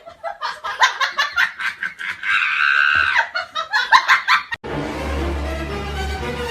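A person laughing in quick, pulsing bursts, with a higher drawn-out stretch in the middle. It cuts off suddenly about four and a half seconds in, giving way to a steady low hum.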